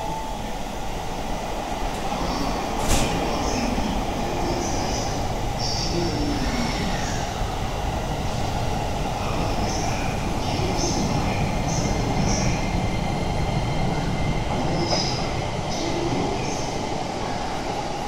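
Keisei commuter train moving along the platform: a steady rumble of wheels and running gear, with short high-pitched squeals from the wheels on the rail. There is one sharp click about three seconds in.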